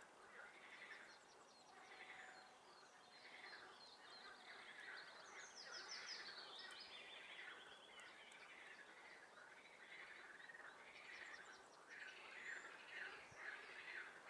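Faint chorus of frogs calling over and over, with songbirds trilling higher above them, loudest in the middle.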